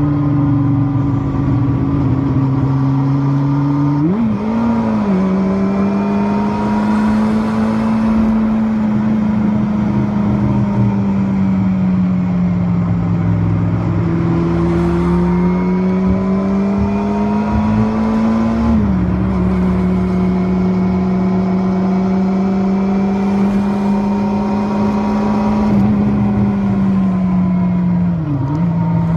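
Kawasaki Balius (first generation) water-cooled inline-four 250 cc motorcycle engine running under way, its pitch rising and falling. The pitch jumps up suddenly about 4 seconds in, drops about 19 seconds in, and dips briefly near the end.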